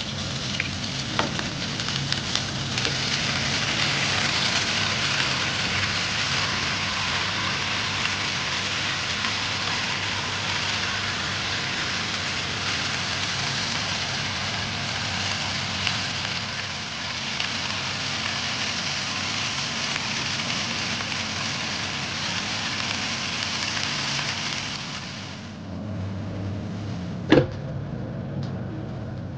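Honey-ginger marinated chicken thighs sizzling steadily in oil in a grill pan. The sizzle dies down about 25 seconds in, and near the end a single sharp clink comes as a lid is set on the pan.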